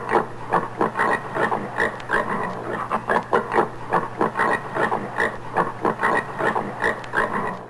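Common warthog grunting in a quick, steady series of short grunts, about three a second, over a faint steady low hum.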